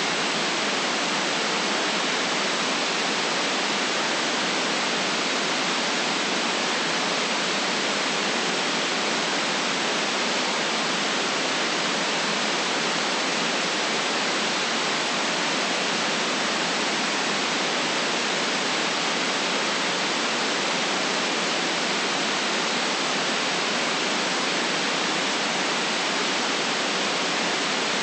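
Steady synthetic white noise: an even hiss, filtered below and above, unchanging in level.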